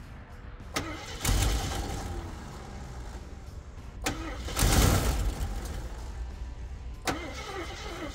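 A 1974 AMC Javelin's engine being cranked over by its starter in repeated tries, each starting with a sharp click. It turns over a little slow, and the engine noise swells loudest about halfway through.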